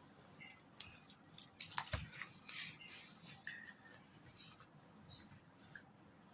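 Faint handling sounds of a pen being picked up and readied for writing on paper: a few sharp clicks about a second and a half to two seconds in, then short rustling and scratching, fading to quiet.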